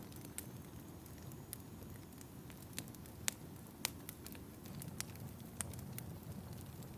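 Wood fire crackling in a fireplace: irregular sharp pops and snaps over a low steady rumble of the flames, with two louder pops a little past the middle.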